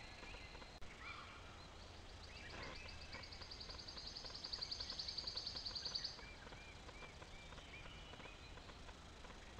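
A songbird's high, rapid trill that swells in loudness for a few seconds and then stops abruptly, followed a second or two later by a short run of about five quick chirps.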